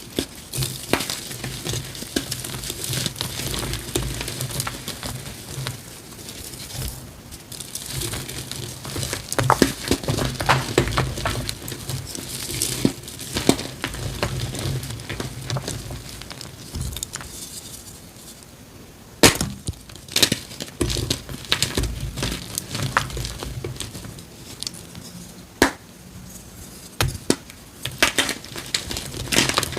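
Blocks of gym chalk being crushed: steady crunching and crumbling with sharp cracks as pieces snap apart, a few louder snaps standing out in the second half.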